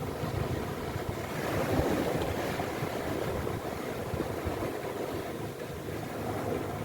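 Sea waves washing in on the shore, a steady rushing that swells about two seconds in, with wind buffeting the microphone.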